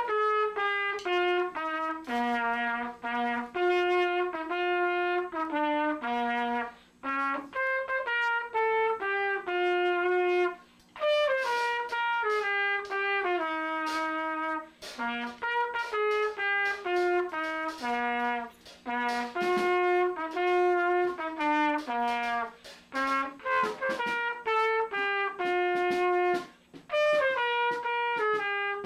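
Trumpet playing a tune of short, steady notes in phrases that step up and down, with brief pauses between phrases.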